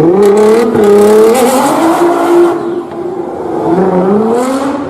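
Nissan GT-R R35's twin-turbo V6 revving hard through a loud exhaust. The note climbs steeply at the start and holds high, with a few sharp cracks. It drops suddenly about two and a half seconds in, then climbs again near the end.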